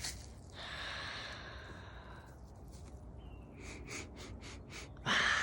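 A person breathing slowly and audibly: a long, soft breath about half a second in, a few faint short clicks later on, and a louder sighing breath near the end.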